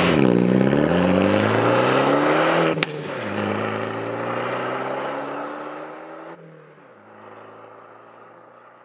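Alfa Romeo MiTo engine and exhaust accelerating, the pitch climbing. About three seconds in the revs drop with a sharp crack, then climb again as the sound fades away.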